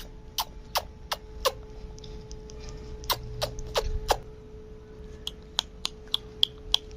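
Plum-headed parakeet making a string of short, quick chirps and clicks, each dropping in pitch, irregularly spaced, with higher, shorter blips in the second half.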